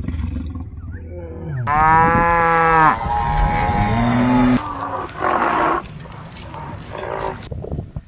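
A lion's low rumbling growl, then cattle mooing: two long moos, the second rising at its end, followed by rougher calls from the herd.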